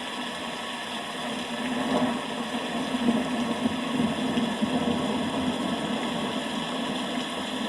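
Steady rain hiss with a low, uneven rumble of thunder that swells about a second in and rolls on.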